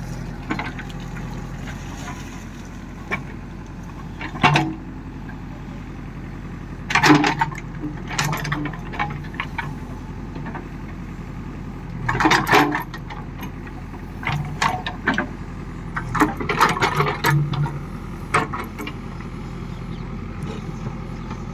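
A diesel engine of farm machinery running steadily at low revs, with short, loud clanks and rattles at irregular gaps of a few seconds.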